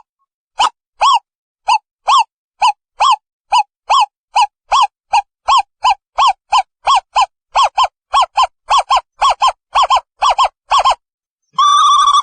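Owl calling: a long series of short pitched notes that speed up steadily, then run together into a continuous wavering trill near the end.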